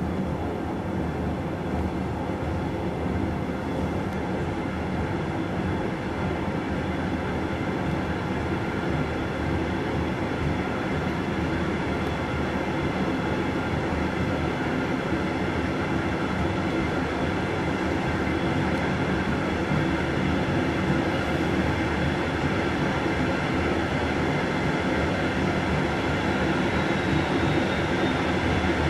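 Running noise of a moving passenger train heard from inside: a steady rumble and hiss of wheels on rails, slowly growing a little louder.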